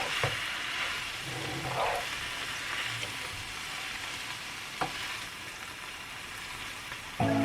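Food sizzling in a frying pan while it is stirred, with a couple of light knocks of the utensil against the pan. Music comes in near the end.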